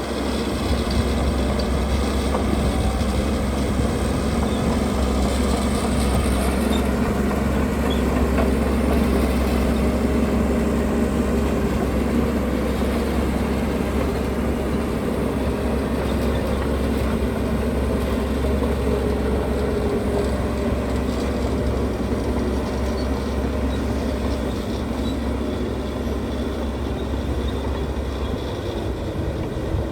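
Heavy diesel earth-moving machinery running steadily under load, a deep, even engine drone.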